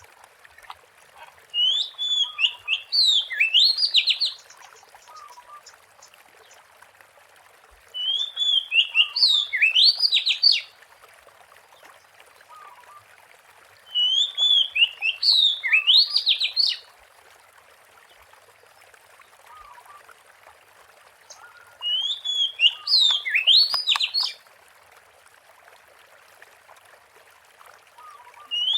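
Oriental magpie-robin singing: four short song phrases of about three seconds each, with pauses of several seconds between them and a fifth starting right at the end, over a faint hiss. Each phrase opens with a wavering whistle and ends in quick rising sweeps.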